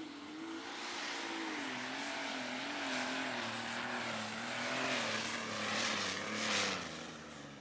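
Unlimited super stock pulling tractor, a white John Deere, running flat out down the track. The engine pitch wavers up and down as the tractor loads and the revs fluctuate, the loudness builds to a peak, then the pitch drops and the sound fades near the end.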